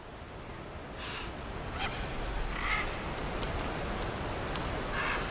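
Rainforest ambience: about four short, harsh bird calls spaced over a few seconds, above a steady noisy background with a faint high whine.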